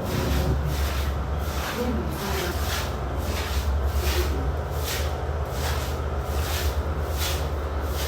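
Hisense Bubble Clean washing machine on its spin cycle: a steady low motor hum with a rhythmic swishing that repeats about twice a second as the drum spins, the machine shaking.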